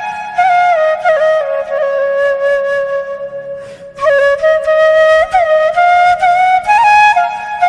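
Flute music: a single flute playing a stepping melody, with a brief break about halfway through.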